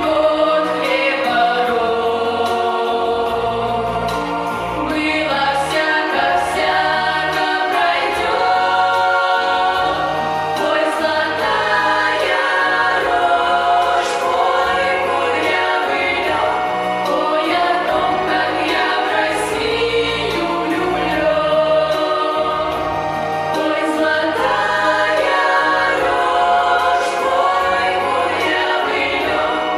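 A choir singing with musical accompaniment, the music fading out at the very end.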